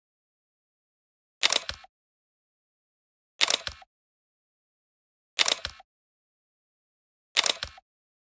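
A short, sharp sound effect repeated identically four times, exactly every two seconds, with dead silence between, as edited into the video's intro.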